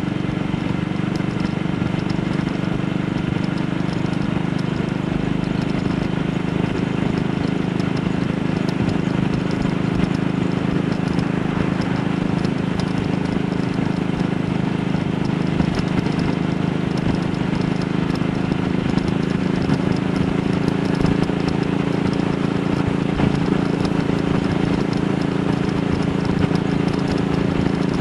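AJS Model 8 single-cylinder four-stroke motorcycle engine running steadily under way, its rapid even beat holding a constant pitch that shifts slightly higher a little past halfway.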